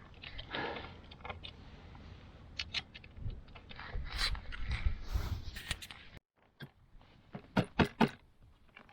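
Metal hand tools clicking and clinking, a socket wrench working bolts on an outboard motor's lower unit, over a low wind rumble on the microphone. The rumble stops abruptly about six seconds in, followed by a few sharper clicks.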